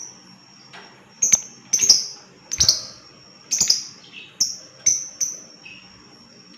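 Lovebird giving a string of short, shrill chirps, about nine of them at uneven intervals, over a faint, thin, steady high tone.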